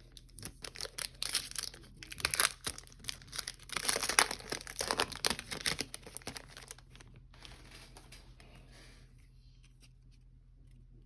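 Foil trading-card pack wrapper being torn open and crinkled in the hands, a dense crackling that peaks twice in the first several seconds and then dies away to faint handling.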